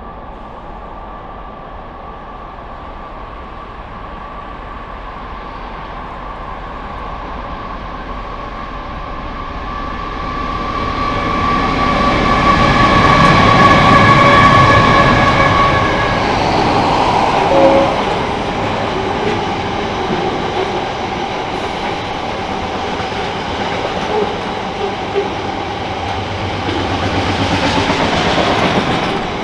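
Diesel-hauled train approaching and passing. The locomotives' steady whine grows to its loudest about halfway through, then the wagons roll by with rhythmic wheel clatter on the rails.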